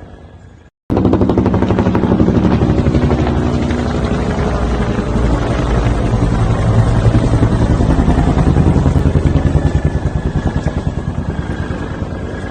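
Helicopter at close range: a fast, even beat of rotor-blade thumps over the steady hum of the engine. It cuts in suddenly about a second in and fades near the end.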